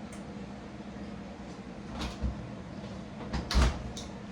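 Kitchen handling noises: a few short knocks and clunks against low room noise, the loudest cluster about three and a half seconds in.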